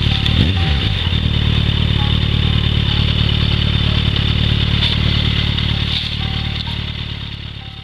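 Yamaha XJR1300's air-cooled inline-four engine running steadily, heard from on board the bike. It fades out near the end.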